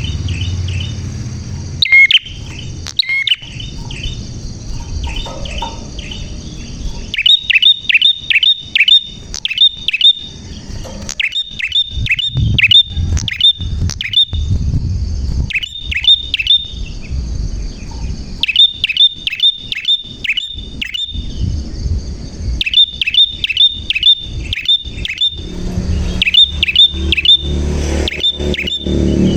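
Prinia (prenjak) singing: quick runs of sharp, loud chirps, five to eight notes in a run, repeated again and again with short pauses between runs. A faint steady high hiss and a low rumble sit underneath.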